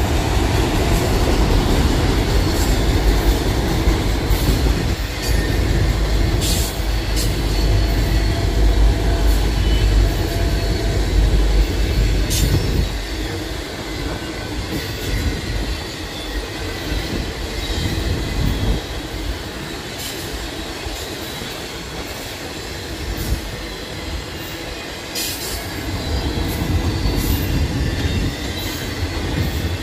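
Freight train of autorack cars rolling past: a steady rumble of steel wheels on the rails, heavier in the first half and easing off about halfway through. A few short, sharp high-pitched wheel squeaks cut through it.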